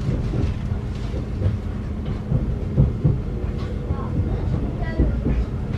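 Interior of a Thameslink Class 700 electric multiple unit in motion: a steady low rumble of wheels and running gear on the track, with occasional knocks.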